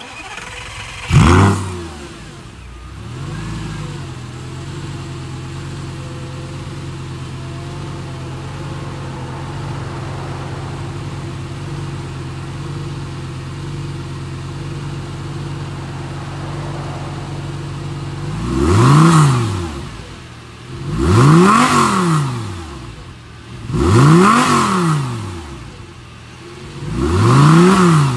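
2008 Lamborghini Gallardo V10 on its stock (OEM) exhaust, starting with a brief flare about a second in and settling to a steady idle. Near the end it is revved four times in quick blips, each rising and falling.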